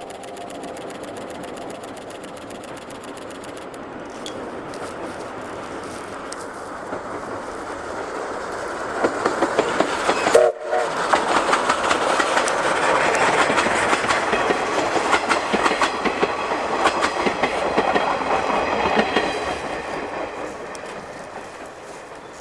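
Steam train hauled by C12 tank locomotive C12 66 running past, its noise building to a loud stretch of rapid wheel clicking over the rails in the middle, then fading away near the end.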